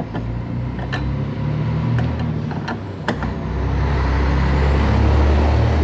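Low, steady rumble of a running vehicle engine that grows louder about halfway through, with a few sharp clicks.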